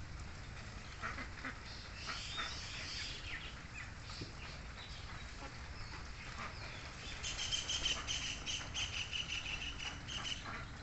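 Birds calling, with a quick run of repeated chirps in the last few seconds, over a low steady background.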